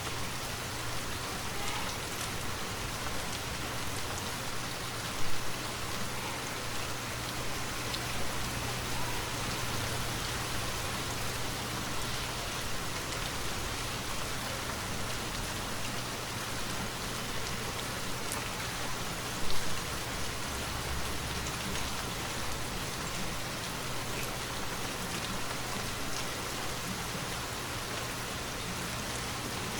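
Steady rainfall, an even hiss of drops hitting surfaces. Two brief, louder knocks stand out, about five seconds in and again near twenty seconds.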